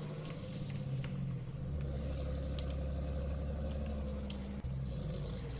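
Truck running while driving, heard inside the cab as a steady low engine and road drone that deepens and strengthens for about three seconds in the middle, with a few sharp clicks over it.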